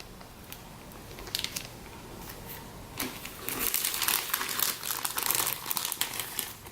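Plastic packaging crinkling as kit parts are handled. It starts with a few faint crackles and becomes dense, steady crinkling from about halfway through.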